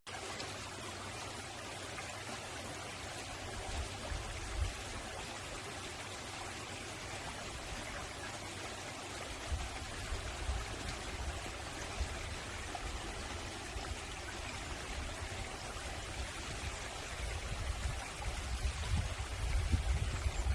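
Mountain valley stream flowing, a steady rush of water, with bouts of low rumbling that grow louder near the end.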